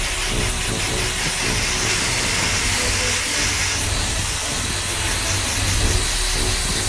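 Steam jet from a VX 5000 steam cleaner hissing steadily as it is sprayed over an engine, with a low hum underneath.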